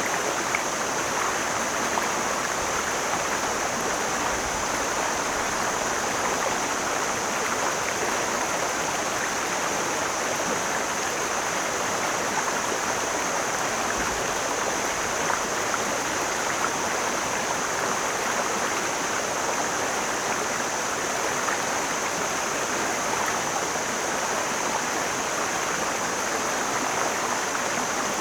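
Mountain stream flowing in a steady, unbroken rush of water.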